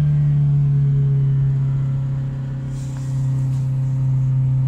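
Audi 80 B4's four-cylinder petrol engine with single-point injection, heard from the cabin, running at a hanging high idle with the throttle released: a steady engine drone that sags slightly about two seconds in and picks back up near three seconds. Revs that hang and won't drop are the symptom the owner blames first on the idle speed control sensor.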